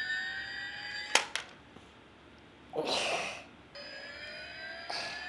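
Battery-powered toy rescue vehicle's electronic siren: a wail of several tones rising slowly together, stopped by a click about a second in. It starts again past the middle and runs on, with a short whooshing noise in the gap between.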